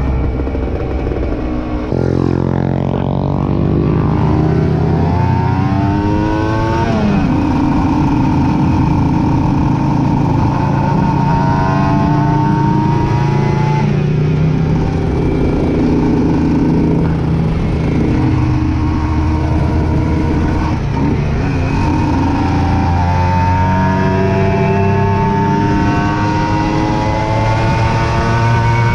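Aprilia RS 125 motorcycle engine pulling through the gears under way, its pitch climbing and then dropping at each shift, several times, with a long climb near the end.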